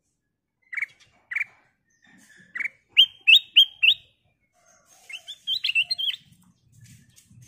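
Black-crested bulbul calling: a few short chirps, then a quick run of four rising notes about three seconds in, then a faster jumbled phrase of high notes around five to six seconds in.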